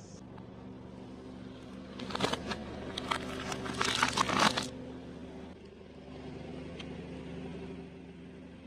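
Food and its packaging crunching and crackling as they are crushed under a car, in a cluster of crackles from about two seconds in to just under five seconds, over a steady low engine hum.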